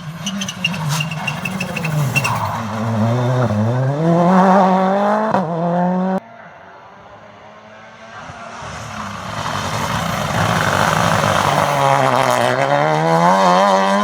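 Rally car engine driven hard: the pitch drops as the car slows into a corner, then climbs steeply as it accelerates away. The sound cuts off suddenly about six seconds in, then a second rally car's engine rises as it comes on and accelerates hard.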